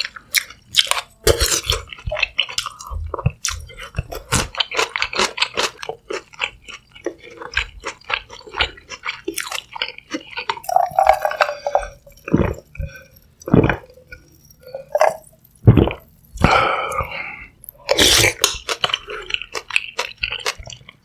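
Close-miked eating of sundae gukbap, Korean blood-sausage soup with rice: continuous wet chewing with many quick mouth clicks and a few sharper, louder strokes.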